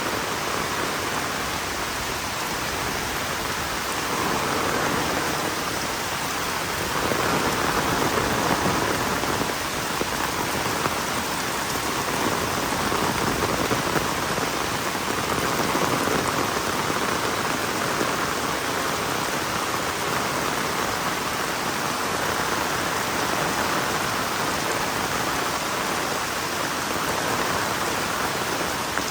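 Heavy rain falling steadily as a dense, even hiss, swelling a little louder a few times.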